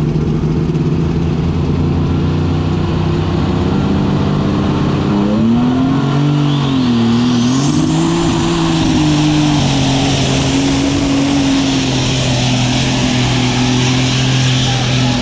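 Superstock pulling tractor's diesel engine running hard and loud. About six seconds in its pitch dips and recovers, while a high whistle climbs steeply and holds for several seconds.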